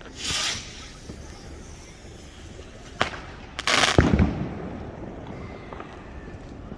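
Fireworks going off: a short hiss just after the start, a sharp crack about three seconds in, and a louder burst with a low bang about a second later.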